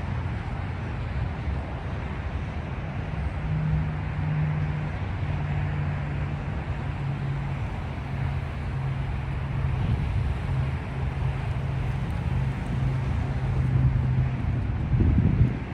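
Freight train rolling past: a steady low rumble, with a low steady hum through most of it and a louder surge near the end.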